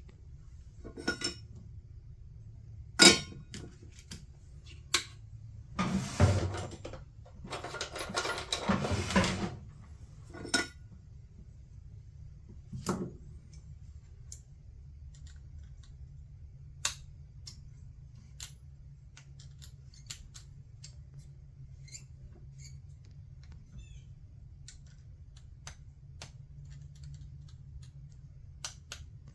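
Small metal tools clicking and clinking against a circuit board and workbench while a relay is being desoldered, with a sharp snap about three seconds in and two short scraping rustles around six and nine seconds, then light scattered ticks. A steady low hum runs underneath.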